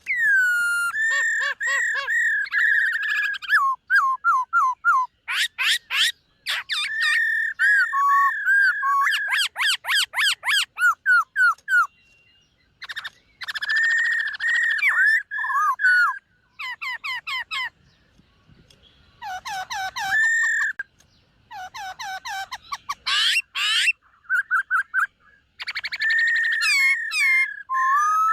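Black-throated laughingthrush singing: loud, varied whistled phrases with rapid trills and pitch slides, broken by several short pauses.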